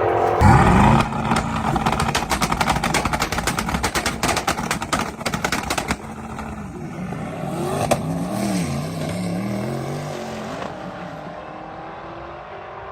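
Twin-turbo C8 Corvette V8: the engine note sweeps up just after the start, then runs for several seconds under a dense, rapid crackling. From about halfway it is quieter, with the engine pitch rising and falling at low revs as the car comes off the throttle.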